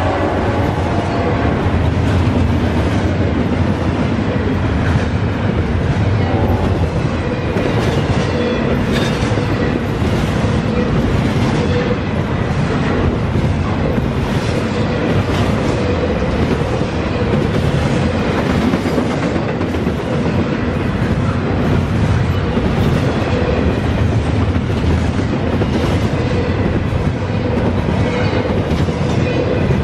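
Double-stack intermodal freight train passing close by: a steady rumble of the cars rolling past, with a regular wheel clatter about once a second.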